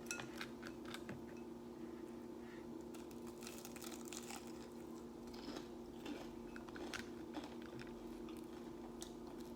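Faint eating sounds: scattered crunches, clicks and chewing from a mukbang of seafood and fried crab, over a steady low hum.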